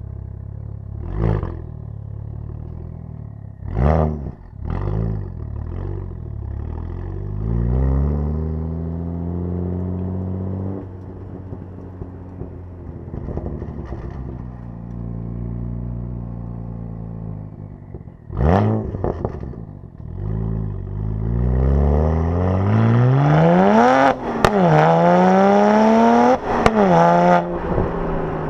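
BMW 1M Coupé's twin-turbo straight-six through a straight-piped midpipe, lightweight titanium mufflers and a 200-cell sport catalytic converter: several short, sharp throttle blips, a rev held for a few seconds that falls back to idle, then near the end two hard climbs in pitch, each ending in a loud crack as the revs drop.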